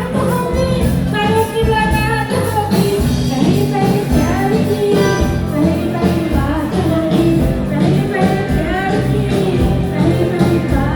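Live band playing amplified music with a singer, with guitar, keyboard and a steady beat.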